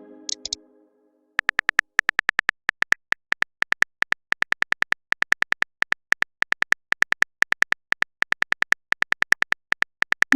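Phone keyboard typing sound effect: a long, irregular run of short tapping clicks, several a second. The run comes after a fading notification chime near the start, and a short rising swoosh comes at the very end.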